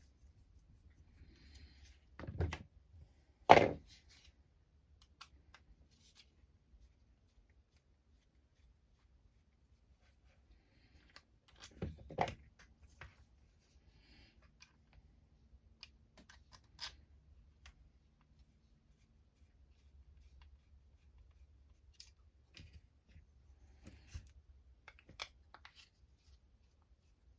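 Scattered clicks and knocks of small parts and tools being handled at a workbench, a few sharp ones about 2.5 and 3.5 seconds in and around 12 seconds, with fainter ticks between.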